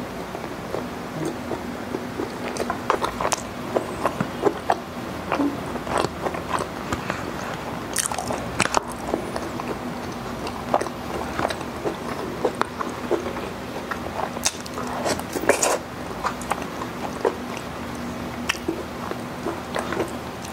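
Close-miked eating sounds: wet chewing, lip smacks and mouth clicks as a soft bao bun and spoonfuls of goto rice porridge are eaten, with a spoon stirring and scraping in a paper cup. There are many short smacks throughout.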